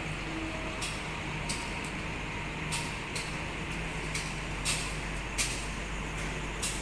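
A train standing at a station with its engine idling: a steady low hum, with short sharp hissing clicks at uneven intervals, about eight of them.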